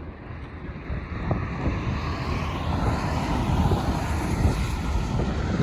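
Steady rushing wind noise that grows louder over the first few seconds, with a low rumble underneath.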